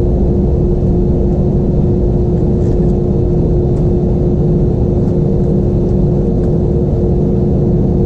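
Steady cabin rumble of an Airbus A320-232 with its IAE V2500 engines running, heard inside the cabin by a window seat, with a constant low hum and no change in pitch.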